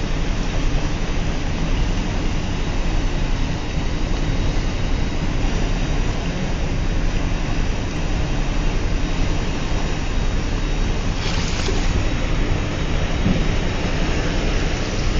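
Steady low rumble of a ship's machinery, with water rushing in the wake at the stern and wind on the microphone. There is a brief hiss about eleven seconds in.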